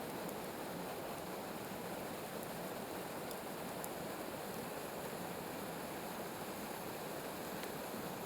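Water of a partly frozen creek waterfall falling and running, a steady rushing noise with a few faint ticks.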